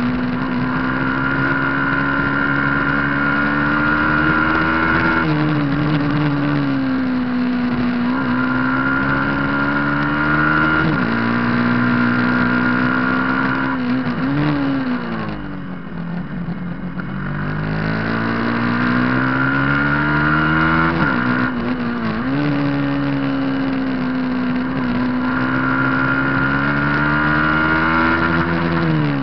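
Superbike racing motorcycle engine running hard at high revs. Its pitch holds or creeps up, then drops sharply every few seconds. About halfway through it eases off for a couple of seconds before climbing back.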